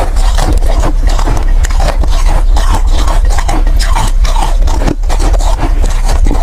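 Soft, powdery ice being bitten and chewed close to the microphone: a rapid, continuous run of crunches and scraping over a steady low hum.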